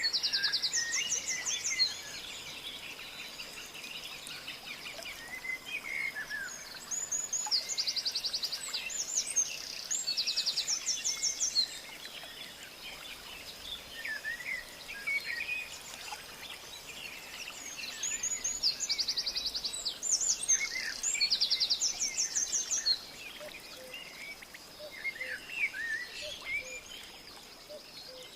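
Wild birds singing: one bird repeats a loud, fast, even trill in three bouts, while other birds give short scattered chirps. A steady thin high-pitched tone runs underneath.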